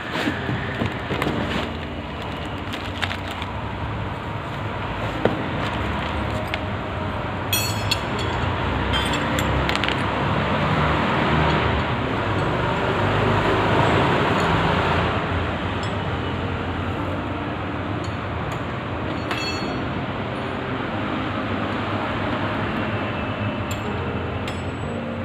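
A few sharp metallic clinks of tools or parts being handled over a steady rumble of passing traffic, which swells about halfway through.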